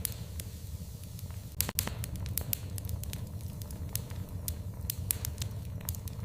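Wood fire crackling in a fireplace: frequent sharp pops and snaps, with a loud cluster of pops about one and a half seconds in, over a low steady rumble.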